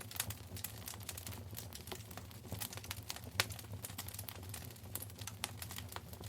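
Wood fire in a fireplace crackling: irregular sharp pops and snaps over a low steady rumble, with one louder pop about three seconds in.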